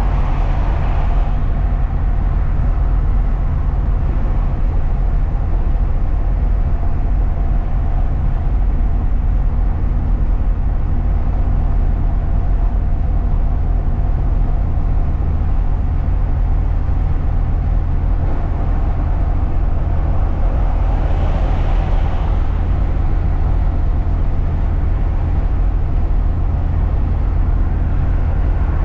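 Truck driving along, its engine and tyres making a steady low rumble. A rushing noise swells briefly just after the start and again about three-quarters of the way through.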